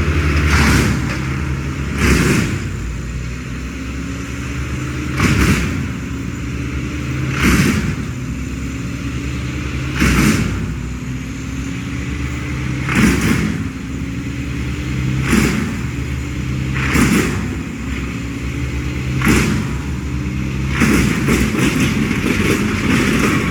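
An engine running steadily, with a loud noisy burst about every two to three seconds and a faint rising tone between the bursts; the bursts come in quick succession near the end.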